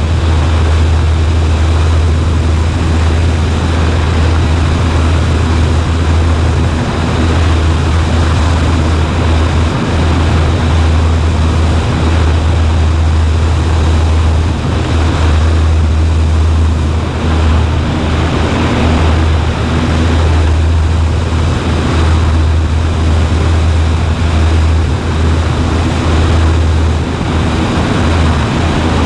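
Cessna 140A light plane's engine and propeller droning steadily in cruise, a strong low hum under a wide rush of noise.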